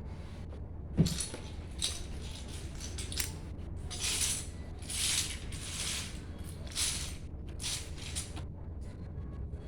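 Loose plastic Lego pieces rattling as they are sifted and shaken through by hand, in short bursts of clattering, with a sharp knock about a second in.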